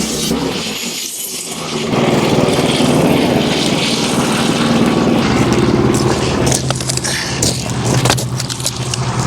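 Wood-Mizer LX25 portable band sawmill running, its band blade sawing through a hemlock beam. The sound grows fuller about two seconds in, with scraping clicks near the end.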